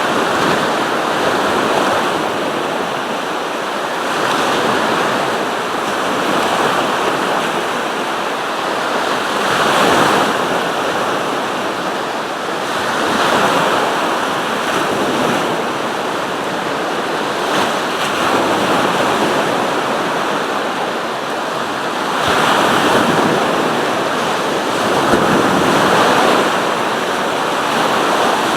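Sea surf: waves breaking and washing up the shore in a continuous rush that swells every few seconds as each wave comes in.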